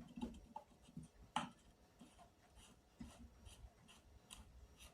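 Faint, scattered clicks and taps of small metal parts being handled: the old nut going back onto the Kirby vacuum's fan shaft, with one sharper click about a second and a half in.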